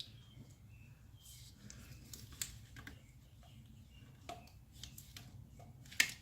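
Scattered light clicks and taps of parts being handled under a car's hood, with one sharp, louder click near the end, over a steady low hum.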